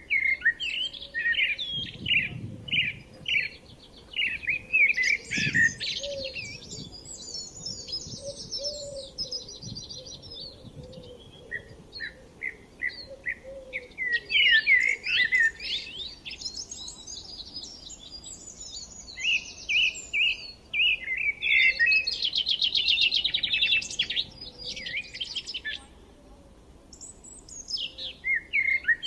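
Songbirds singing: phrases of quick repeated chirps and fast trills, broken by short pauses.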